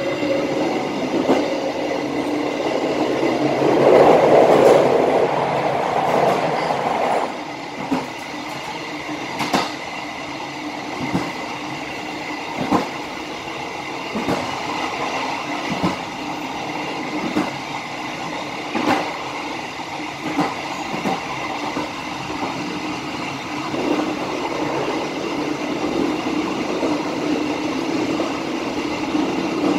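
Bengawan passenger train running on the line as heard from its rear car: a steady rumble of the wheels on the rails, with a click every second or two as the wheels cross rail joints. The rumble swells louder for a few seconds about four seconds in, then settles back.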